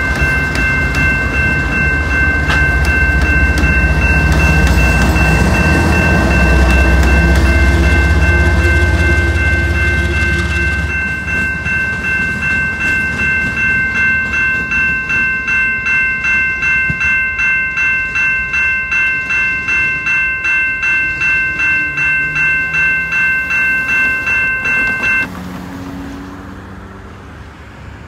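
A train passing a level crossing while the crossing's bell rings. The train's rumble dies away about eleven seconds in, leaving the bell ringing about twice a second until it cuts off suddenly near the end.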